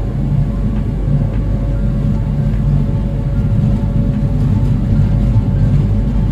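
Steady low drone of a passenger ferry's engines under way, with a constant hum.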